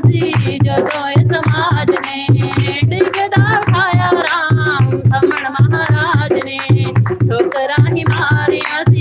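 Punjabi devotional bhajan: a voice singing over a steady tabla rhythm.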